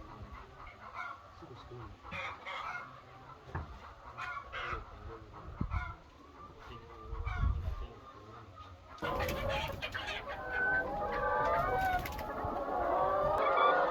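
Chickens clucking. About nine seconds in it turns louder and denser, with many birds calling over one another.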